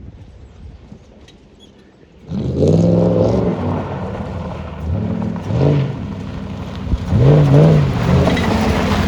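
Ford Crown Victoria's V8, its catalytic converters cut out, revving hard. It jumps in loudly about two seconds in, and its pitch rises and falls about three times, with the loudest rev near the end.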